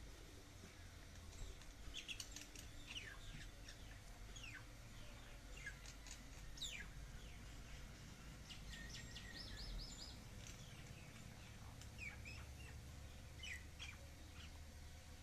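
Faint, scattered bird chirps and short calls, with one quick trill about nine seconds in, over a low steady hum.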